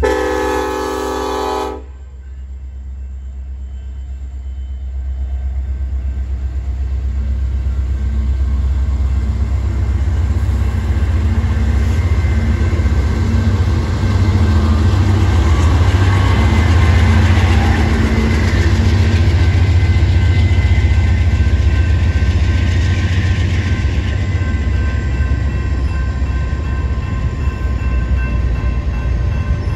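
Union Pacific diesel freight train at a grade crossing. Its horn sounds briefly and cuts off sharply about two seconds in. Then the locomotives' low engine rumble builds and passes, and the steady rolling of freight cars over the rails follows.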